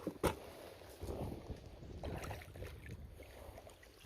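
Landing a bass from a kayak with a landing net: one sharp knock near the start, then faint knocks and handling noises.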